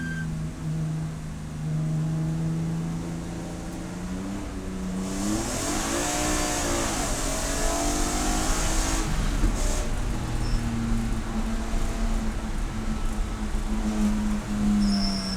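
Race car engine running at speed on a circuit, its pitch climbing and dipping about five seconds in as the revs change, then holding steady. A rushing hiss rises over it for a few seconds in the middle.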